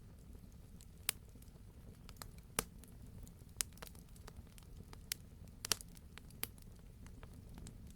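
Wood fire crackling in a fireplace: scattered sharp pops and snaps, irregular and a few at a time, over a low steady rumble of the burning fire.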